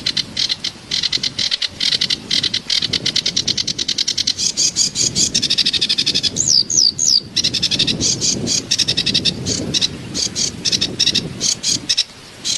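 Kerak basi songbird singing a rapid chatter of repeated high notes, several per second, with three quick falling whistles a little past the middle, over a steady background of running water.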